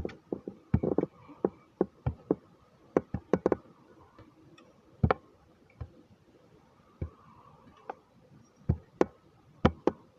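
Irregular light clicks and knocks of small plastic toys being handled and set down, about twenty in all and unevenly spaced.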